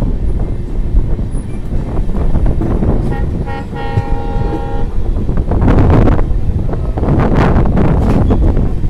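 Steady rumble and rushing of a moving train, swelling twice near the end; about three seconds in, a train horn sounds for about a second and a half.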